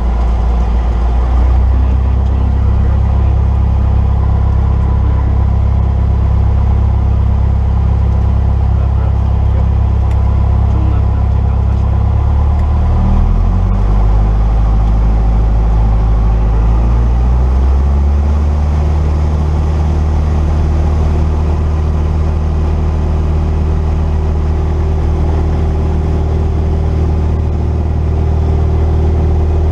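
Cessna 172's piston engine and propeller running steadily. About halfway through, the engine note dips and shifts, then settles at a new steady speed.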